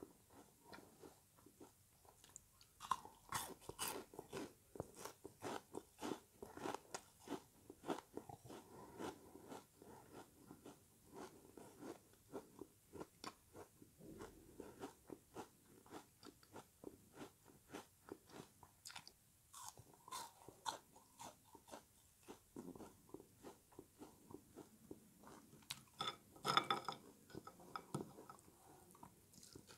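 A person chewing a piece of frozen lemony sponge close to the microphone: a steady run of wet crunches, about two to three a second, with a louder cluster of crunches near the end.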